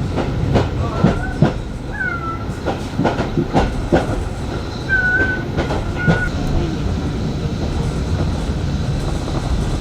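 Heritage railway carriage running along the track: a steady rumble with a series of sharp clacks and knocks from the wheels and couplings, heaviest in the first half, and a few brief high squeals.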